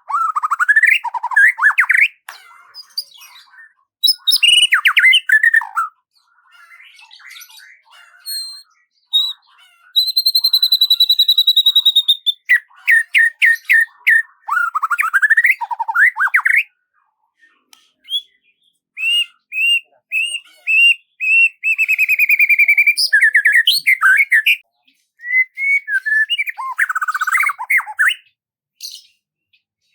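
Songbird singing a varied, loud song of sliding whistles, chirps and fast stuttered trills. About a third of the way in there is one long held whistle, and near the end a run of quick, evenly repeated notes.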